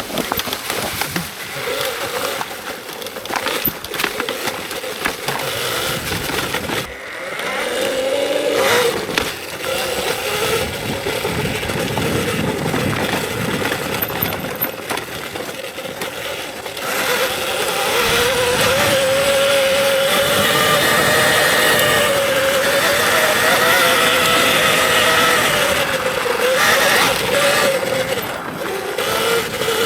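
Electric dirt bike being ridden on a trail: the motor's whine wavers up and down with speed over a rough noise of tyres on the trail, with scattered knocks. It gets louder and steadier about halfway through.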